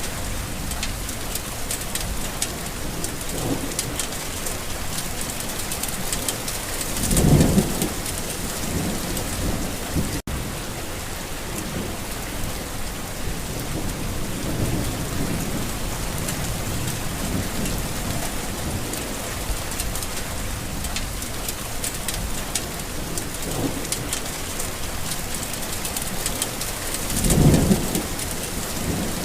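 Steady rain with low rumbles of thunder. The loudest rumbles come about seven seconds in and again near the end, with fainter ones between.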